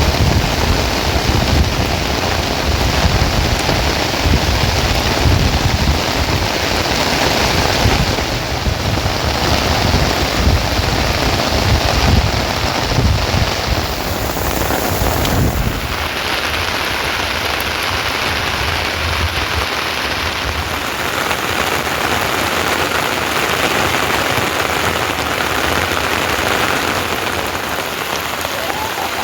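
Steady heavy rain falling, with a low rumble underneath that stops about halfway through.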